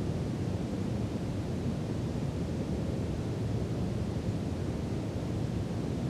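Steady brown noise: an even, deep rushing hiss with most of its weight low down and little at the top, unchanging throughout.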